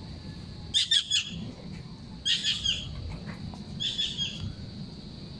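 Small birds chirping in three short bursts of quick, high notes, about a second and a half apart.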